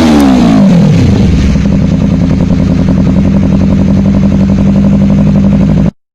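Honda CBR250RR motorcycle exhaust: the revs drop back from a blip over the first second, then the engine idles steadily until the sound cuts off suddenly near the end.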